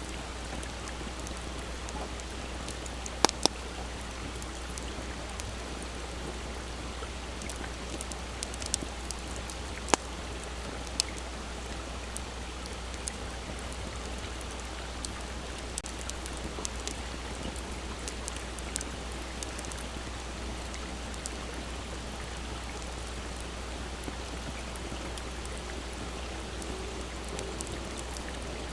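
Wood campfire crackling, with scattered sharp pops, the loudest about three and ten seconds in, over the steady rush of a small stream.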